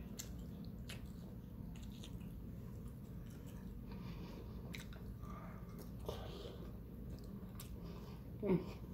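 Close-up mouth sounds of chewing and biting fried lake trout and cabbage, soft and wet, with small clicks. A short falling voiced sound, like a brief murmur, near the end is the loudest moment.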